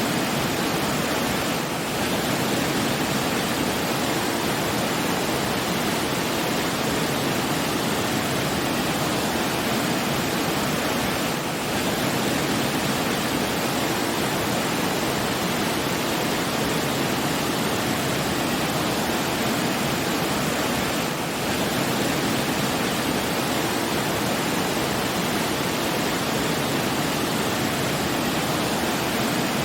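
Steady, even rush of falling water, like a waterfall, with slight dips in level about every ten seconds.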